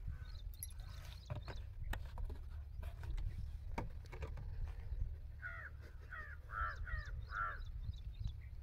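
A bird cawing five times in quick succession in the second half, over a steady low rumble and a few faint clicks.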